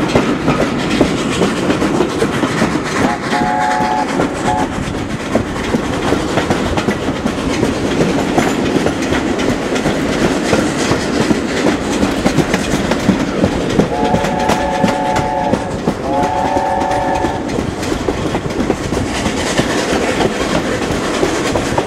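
Heritage train running along the track with a steady rumble and clickety-clack of the wheels over rail joints. It sounds a chord-like horn or whistle: one short call about three seconds in with a brief extra toot, then two longer calls a little after halfway.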